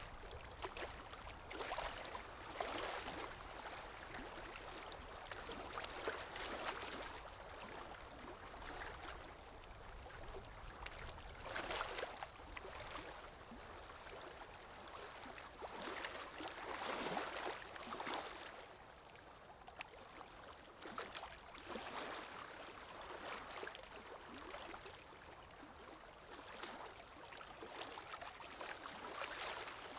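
Moving water sloshing and splashing in irregular surges, a swell every second or two.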